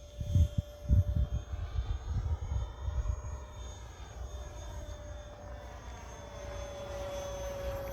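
Radio-controlled Funjet flying, its electric motor and propeller giving a steady whine that slides slightly lower in pitch near the end. There is low buffeting on the microphone in the first second or so.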